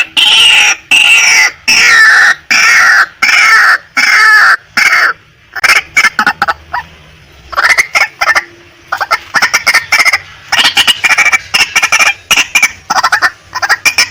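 Female white-breasted waterhen calling. First comes a run of loud calls, each falling in pitch, about one and a half a second. After a short gap come faster series of short, clipped notes.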